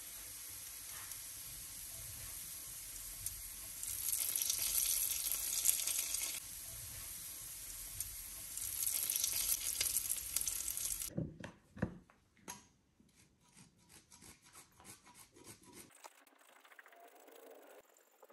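Diced cured pork sizzling in a frying pan, the sizzle swelling louder twice. About eleven seconds in the sizzle stops and a run of light clicks and taps follows. Near the end there is faint rasping of Pecorino Romano on a fine grater.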